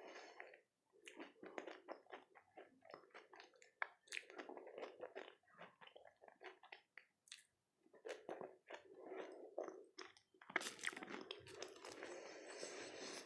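Close-miked chewing of dahi golgappe: crisp fried puri shells crunching between the teeth with wet mouth sounds from the yogurt filling. About ten and a half seconds in, the crunching becomes denser and louder, as with a fresh mouthful.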